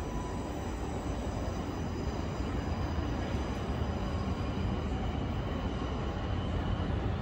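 Approaching passenger train running into the station: a steady rumble that slowly grows louder, with a faint high-pitched whine above it.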